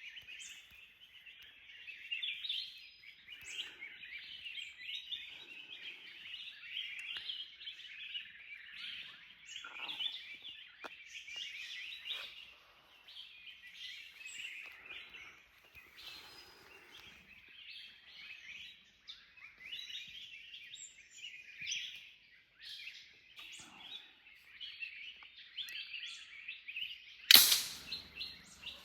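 Continuous dense chirping of forest birds, with a single sharp shot about a second and a half before the end, much louder than everything else.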